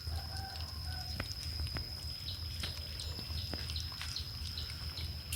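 Kittens eating, a run of small irregular clicks of chewing and lapping, over a steady low hum and a thin, steady high whine.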